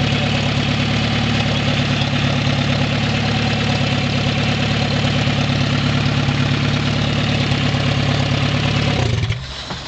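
Turbocharged Honda D16 four-cylinder engine idling steadily with no exhaust fitted, running straight out of the Garrett GT28 turbo. The sound falls away sharply about nine seconds in.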